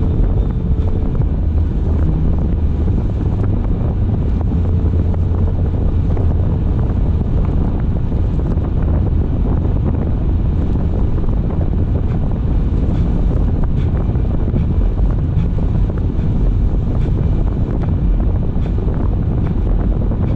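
Steady road and wind noise of a car driving, a low rumble with wind on the dashcam microphone.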